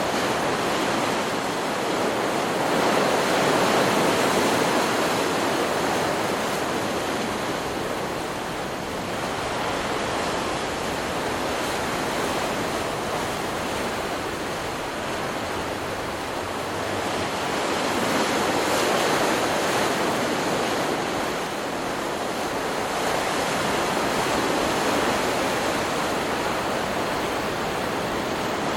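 Stock recording of ocean surf: waves breaking and washing ashore in a continuous rush of noise that swells and eases every several seconds.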